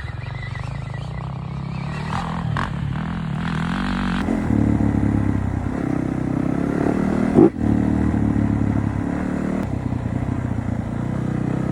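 Dirt bike engine running under way, growing louder about four and a half seconds in. A brief sharp knock comes about seven and a half seconds in.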